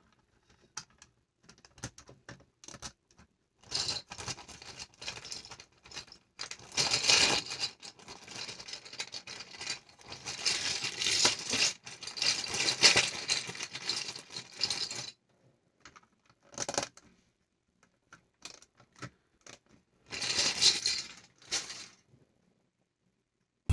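Loose plastic LEGO bricks clattering and clicking as hands rummage through them, in several bursts of rattling with short pauses between.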